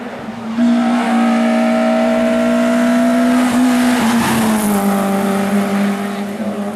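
Race car engine at high revs, coming in suddenly about half a second in. Its pitch holds nearly steady and climbs slightly, then drops in a step about four seconds in and holds at the lower pitch.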